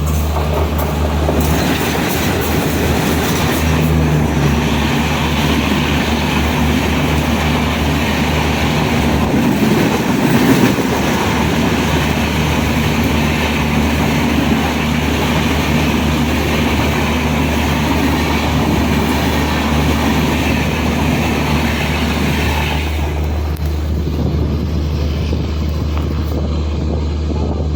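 Diesel-hauled express train passing at speed, the wheels running over the rails and the coaches rushing by for about twenty seconds before the noise falls away, over a steady low hum.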